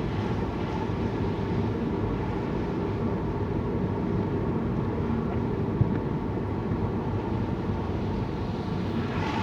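Car driving, heard from inside the cabin: steady engine and road noise, with a single short knock about six seconds in.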